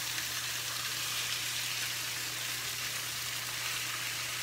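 Breaded chicken frying in oil in a skillet, sizzling steadily.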